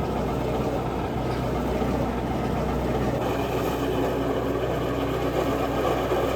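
Gasoline engine of a wood chipper running steadily.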